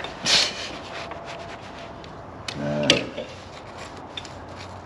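Hand tools working a seized, rusted bolt on a fuel tank bracket: scraping and sharp metallic clicks, with a short low groan of strain about three seconds in.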